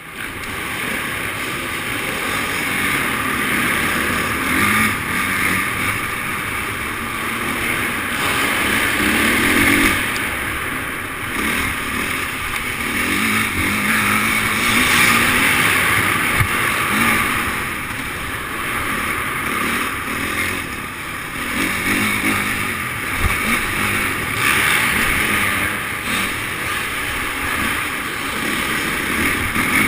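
Motocross bike engines running and revving, the sound swelling and falling away in waves every few seconds.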